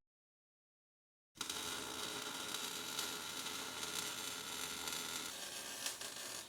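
A moment of dead silence, then the steady crackling sizzle of a welding arc, with a faint steady hum until about five seconds in.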